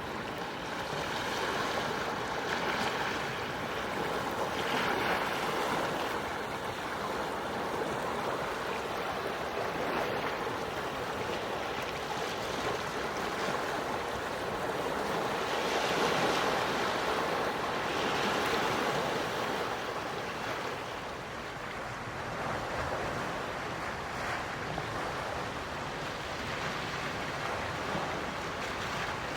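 Gentle sea waves washing onto the shore, a steady rush of surf that swells softly now and then.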